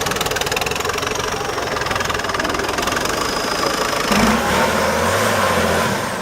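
Off-road trial truck's diesel engine running hard with a rapid clatter, then settling into a steadier low drone about four seconds in.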